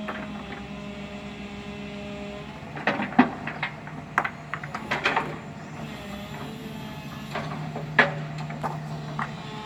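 Backhoe's diesel engine running steadily, with sharp metallic clanks and knocks, a cluster of them about three to five seconds in and a loud single one near the end.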